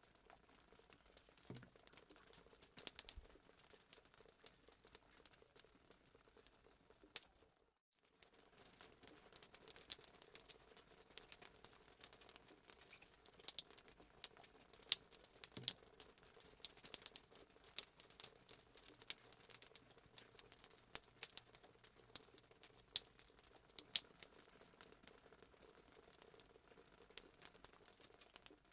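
Fireplace sound effect: wood fire crackling, with irregular snaps and pops over a faint hiss. It drops out for a moment about eight seconds in.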